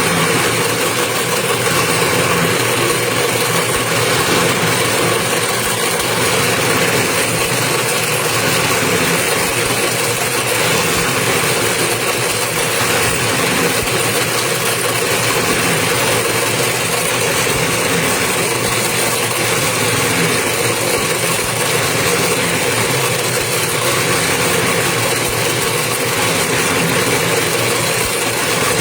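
Toroidal transformer winding machine running steadily, its motor giving an even mechanical hum with a constant pitch.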